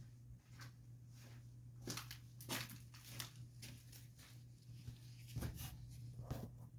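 Faint, scattered clicks, knocks and scrapes of hand work on a portable bandsaw mill during a blade change, over a steady low hum.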